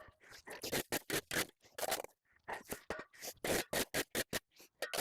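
Rapid, irregular scraping strokes of a hand tool, several a second.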